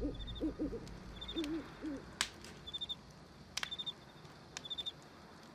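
Night ambience: an owl hooting a few short times in the first two seconds, over crickets chirping in short high trills about once a second.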